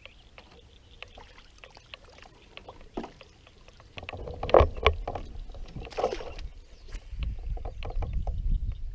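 Knocks, clicks and clatter of handling on board a fishing kayak, loudest about four to six seconds in, with a low rumble through the last couple of seconds.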